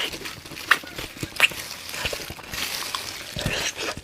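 Close-up eating sounds: wet chewing and lip smacks on saucy braised chicken, irregular, with two sharper smacks about a second and a second and a half in.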